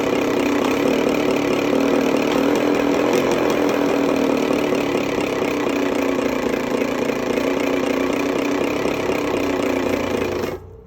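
Fake engine sound from a bicycle: a dried-squid-peanut snack bag flapping against the turning spokes makes a steady motor-like 'brororo' buzz. It cuts off suddenly near the end.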